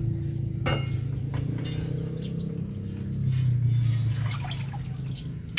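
Steady low machine hum with scattered metallic clicks and knocks, the first sharp knock about a second in.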